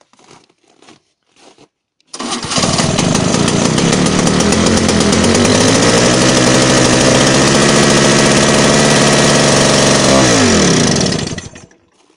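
DT-75 tractor's small two-stroke petrol starting engine (pony engine) running hard in a cold start at −20. It starts suddenly about two seconds in, runs steadily for about nine seconds with its pitch creeping up, then slows with falling pitch and stops near the end. A few faint clicks come before it.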